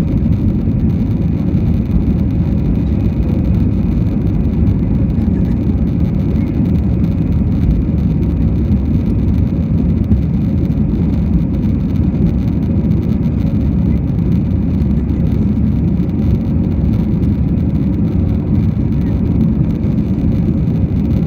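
Airbus A320 jet engines and airflow during takeoff, heard from inside the passenger cabin as a loud, steady low rumble that doesn't change.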